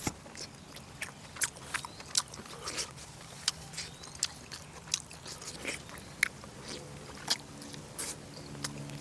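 A person chewing and biting braised pork close to the microphone: irregular wet mouth clicks and smacks, a few each second.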